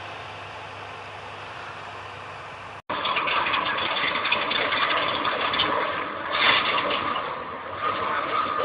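A quiet steady hum, then after a sudden cut about three seconds in, a louder heavy-equipment engine running with a rough, noisy sound.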